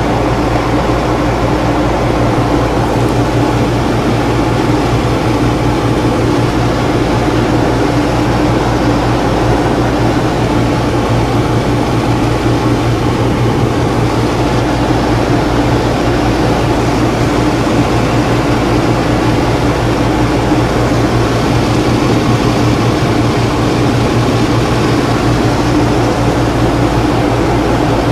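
Whynter 14,000 BTU dual-hose portable air conditioner running steadily: its compressor and fan give an unbroken low hum with an even rush of air over it.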